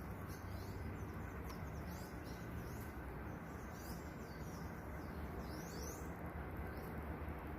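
Several birds chirping at dawn: short high chirps and twitters repeat all the way through over a steady low background hum of outdoor noise.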